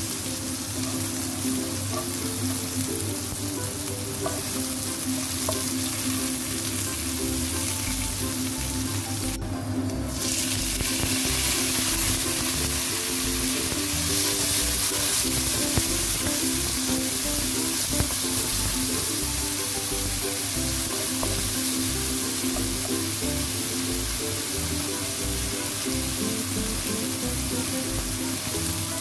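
Sliced shallots, garlic and red chilies sizzling in hot oil in a nonstick wok as a slotted spatula stirs them, with a steady frying hiss. The sizzle breaks off briefly about ten seconds in, then comes back somewhat louder as chopped tomatoes are added and stirred in.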